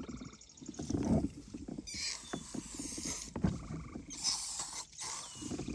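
Aerosol mosquito spray hissing in three bursts, the first and longest about two seconds in, then two short ones near the end.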